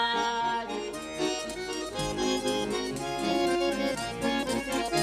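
Accordion playing an instrumental interlude between the sung verses of a Russian folk-style song, a run of quick notes over chordal accompaniment.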